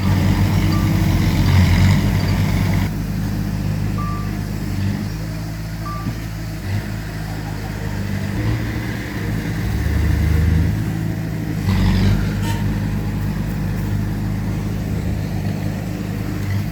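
Heavy diesel earthmoving machinery (bulldozer and dump trucks) running, the engine pitch shifting up and down as they work. A couple of short high beeps come a few seconds in, and there is a knock about twelve seconds in.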